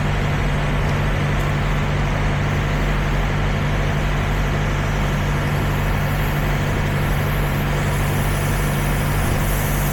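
Peterbilt 379 semi truck's diesel engine idling steadily.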